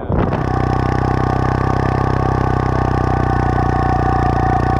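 Triumph Thruxton's parallel-twin engine idling steadily.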